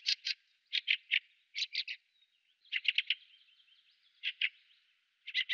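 Fieldfare calling: harsh, chattering calls in quick bursts of two to five notes, repeated about every second, with a softer, squeaky twittering between the bursts midway through.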